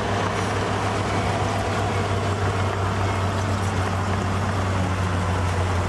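Heavy diesel engine of earthmoving equipment running steadily with a constant low drone.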